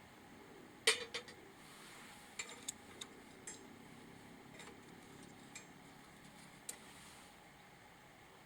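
Metal camp gear being handled: a sharp clink with a short ring about a second in, then a scatter of lighter clinks and taps.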